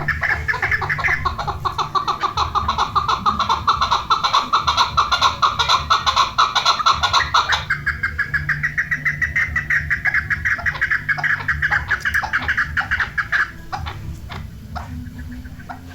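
Chukar partridge calling: a long, fast run of repeated chuckling notes. The pitch drops just after the start and steps back up about halfway through. The calling stops about 13 seconds in, leaving only scattered ticks.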